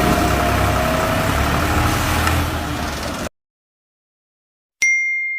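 Massey Ferguson tractor's diesel engine running steadily with a deep rumble, cut off abruptly a little over three seconds in. After a short silence a single bright electronic chime dings near the end and rings on.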